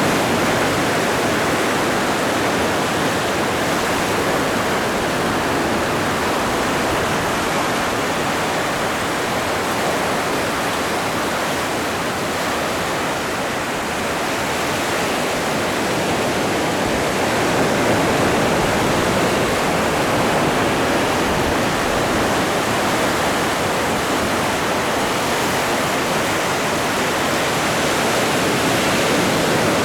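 Atlantic Ocean surf: a steady, continuous wash of breaking waves, swelling slightly about two-thirds of the way through.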